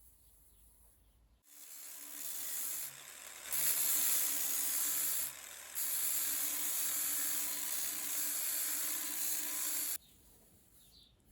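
A steady high-pitched hiss starts about a second and a half in. It grows louder in two steps, breaks off briefly midway, and stops suddenly near the end.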